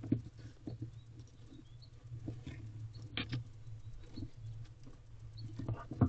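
Barn owl moving and swatting her wing inside an owl box: scattered scratches, rustles and knocks against the box, the loudest just after the start and just before the end, over a steady low hum.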